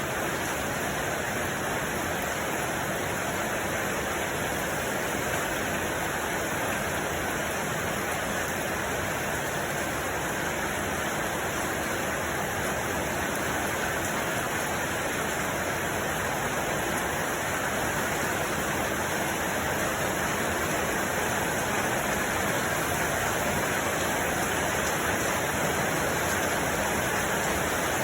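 Steady rushing water, an even, unbroken noise with no distinct drops or splashes, growing slightly louder towards the end.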